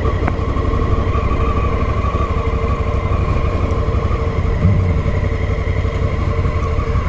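Honda Africa Twin CRF1000L's parallel-twin engine running steadily while riding at an even speed.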